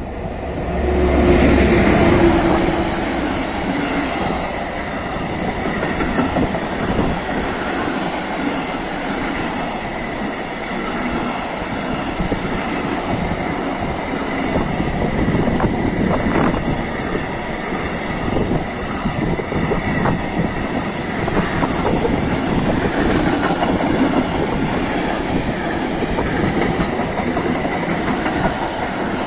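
Electric locomotive hauling a container freight train past at speed, loudest as the locomotive goes by about two seconds in. Then the wagons roll past in a steady rumble with the clickety-clack of wheels over the rail joints.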